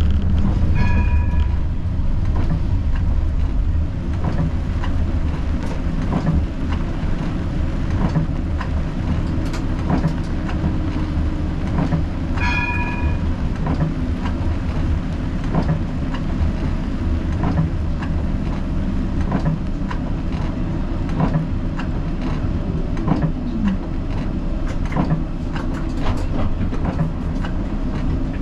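Siemens Combino tram running on street track: a steady low rumble with frequent clicks from the wheels on the rails. A short ringing tone sounds twice, about a second in and near the middle.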